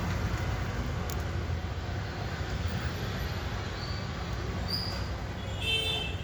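Budgerigars giving a few short high chirps, with a louder, fuller chirp near the end, over a steady low background rumble.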